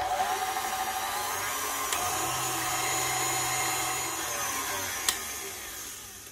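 KitchenAid Artisan stand mixer running with its wire whip, beating butter and sugar to a pale cream. The motor's steady whine starts suddenly as it is switched on, with a light click about five seconds in, and dies away near the end.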